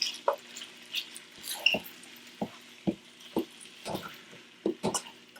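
Chicken frying in oil and oyster sauce in a deep pan, with irregular crackles and pops, about two a second.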